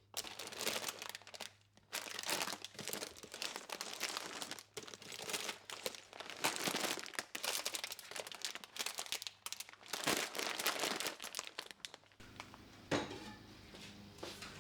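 Crinkly material being handled and crumpled: a dense crackling rustle that stops about twelve seconds in, giving way to quieter, sparser handling sounds.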